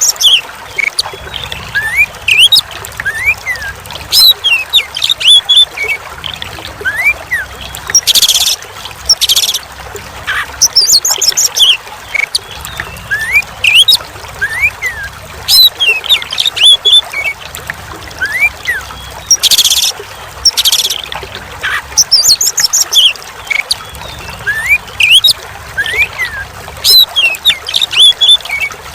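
Oriental magpie-robin (kacer) singing continuously in varied phrases of short rising and falling whistles and quick high notes, over trickling water. A few short hissing bursts, twice in pairs, break in among the phrases.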